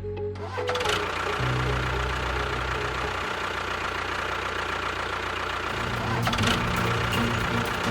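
Small engine running steadily, its sound changing about a second and a half in and again near six seconds in.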